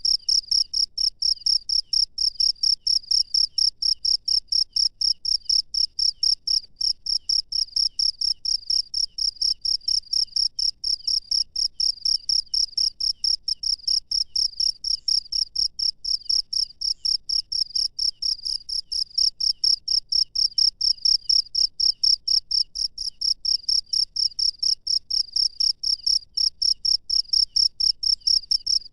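Cricket chirping at night: a steady, evenly spaced run of short, high-pitched chirps, several a second, keeping an even pace throughout.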